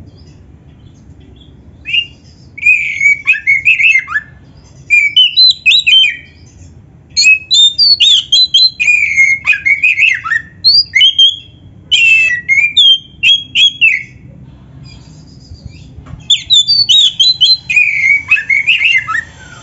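An Oriental magpie-robin (kacer) singing loudly in rapid, varied whistled and scratchy phrases. The song is full of phrases copied from other birds. It comes in four bursts with pauses of one to two seconds between them.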